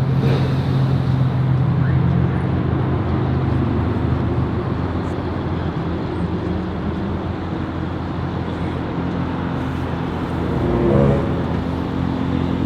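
Car engines idling in a steady low hum over a wash of traffic noise. Near the end there is a brief, louder swell.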